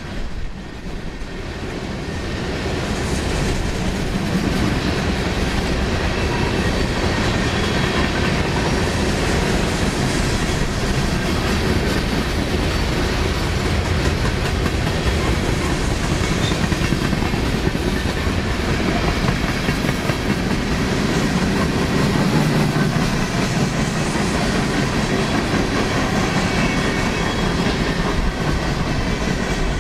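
A long train of empty coal hopper cars rolling past on steel wheels and rails, a steady rumble that builds over the first few seconds and then holds.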